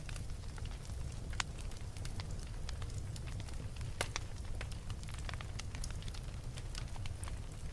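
Wood fire burning in a fireplace: a steady low rumble with frequent crackles and a few sharper pops, the loudest about four seconds in.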